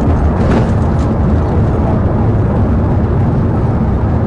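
Police patrol car driving flat out at about 100 mph: steady engine, tyre and wind noise heard from inside the cabin.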